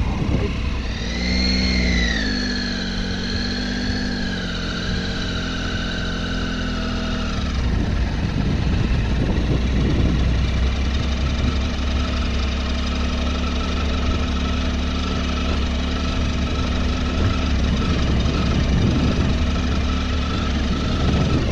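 Triumph Tiger XC motorcycle's three-cylinder engine running under way on a dirt track. The revs rise briefly about a second in and ease down over the next several seconds, then settle into a steadier, lower note with a low wind rumble beneath it.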